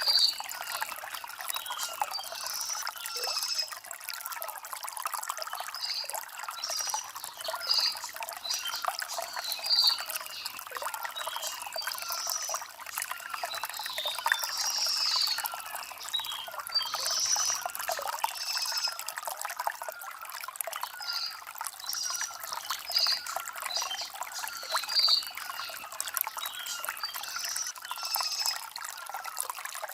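Shallow stream water trickling and gurgling over stones, a busy mix of small splashes and bubbling with little deep rumble.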